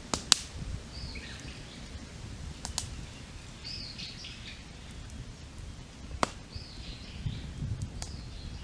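Wood campfire crackling with a few sharp pops, the loudest right at the start and about six seconds in. A songbird sings a short chirping phrase four times.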